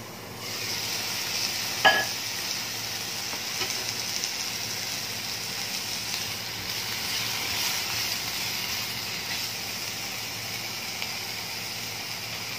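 Sliced bitter melon sizzling steadily in hot oil in a nonstick wok, stirred with a spatula. The sizzle swells just after the start, and there is one sharp knock about two seconds in.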